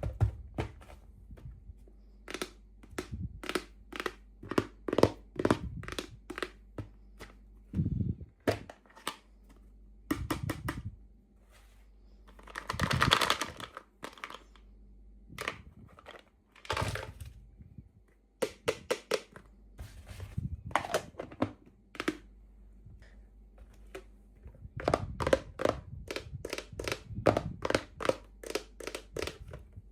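Plastic toy packaging being handled and opened: many sharp clicks and taps, some in quick runs, with one longer crinkle of plastic about halfway through.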